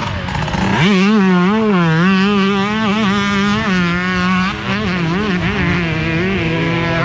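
Motocross dirt bike engine racing close by: it revs up sharply about a second in, then its pitch keeps rising and falling with the throttle, over the fainter drone of other bikes on the track.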